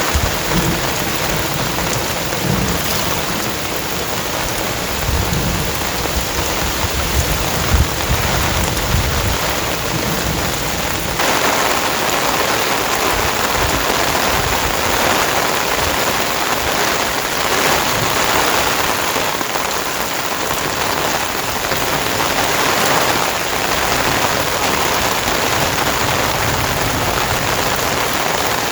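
Heavy rain pouring steadily, with low rolls of thunder through the first ten seconds or so. About eleven seconds in the rumbling stops and the rain's hiss turns brighter.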